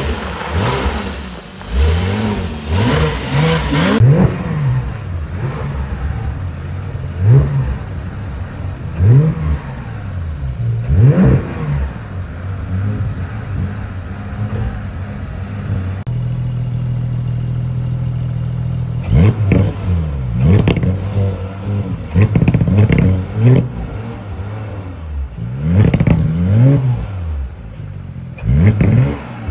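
A car engine revving up and dropping back again and again, each rise and fall lasting a second or two, with the background changing abruptly twice where shots are cut together.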